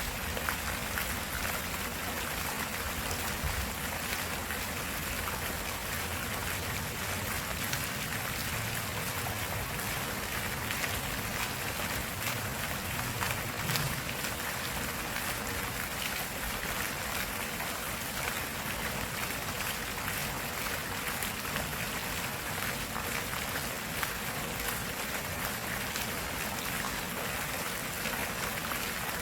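Stream water flowing steadily, an even rushing hiss with small splashes throughout.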